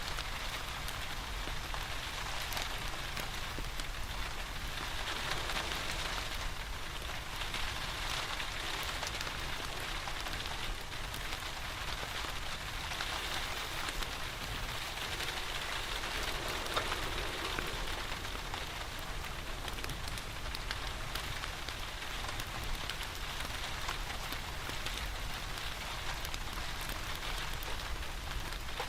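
Steady rain falling, thick with fine patters of drops, with a wood fire crackling in a fireplace beneath it.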